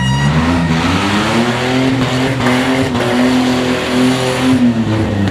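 Demolition derby car's engine revving hard: its pitch climbs over the first second, holds high, then drops about four and a half seconds in before climbing again.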